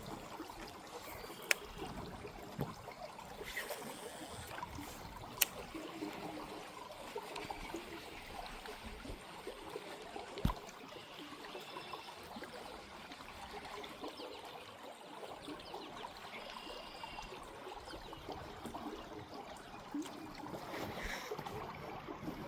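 Creek water trickling and flowing steadily, with three brief sharp clicks spread through the first half.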